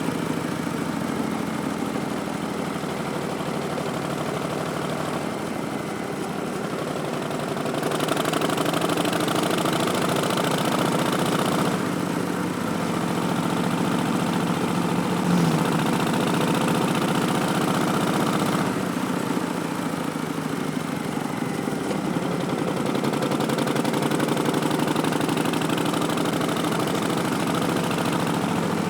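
Harley-Davidson Street Bob's Milwaukee-Eight V-twin running through Vance & Hines Twin Slash slip-on mufflers while riding. The exhaust note rises and falls with the throttle, changing noticeably about eight, twelve and nineteen seconds in.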